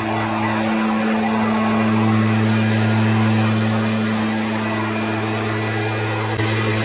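A steady engine or motor drone with a constant low hum and a hiss over it, holding the same pitch throughout.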